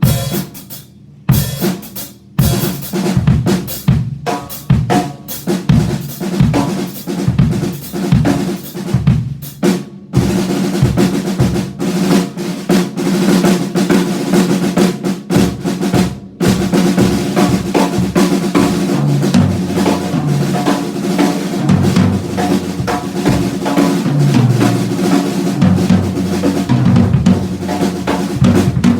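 Drum kit played and picked up through a Yamaha EAD10 drum module: separate hits and fills for about the first ten seconds, then a continuous beat with bass drum and snare.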